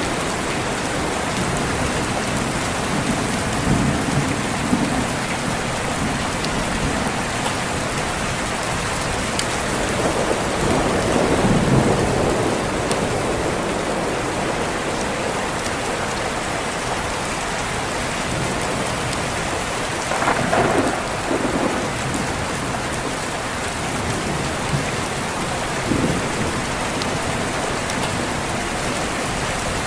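Steady rain falling, with distant thunder rumbling several times over it; the strongest rolls come about a third of the way in and again about two-thirds of the way in.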